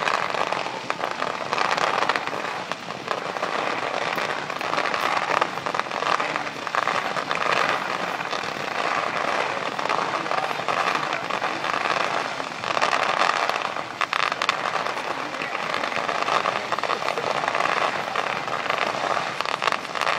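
Fireworks display crackling and popping continuously, many small reports packed closely together without a standout bang.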